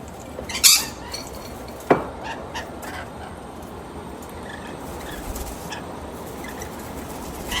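A bird's short squawk near the start, then a sharp tap about two seconds in and a few lighter clicks.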